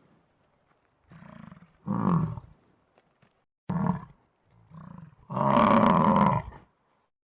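A large animal calling five times in pitched, falling calls with silences between: two faint short ones, two louder short ones, and a long loud call of over a second near the end.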